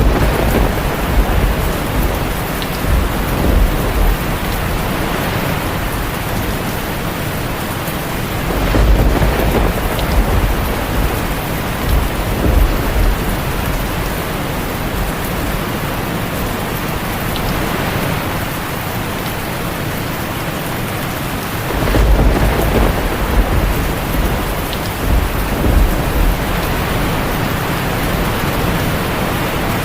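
Heavy rain on a tin roof, a steady dense hiss, with rolls of thunder rumbling up three times: at the start, about nine seconds in, and again about twenty-two seconds in.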